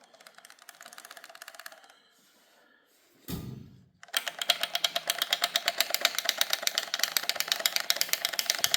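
Hand socket ratchet clicking rapidly, about ten clicks a second, as a fastener is run off an engine: faint for the first two seconds, then loud and steady from about four seconds in. A brief low thud comes just before the loud run.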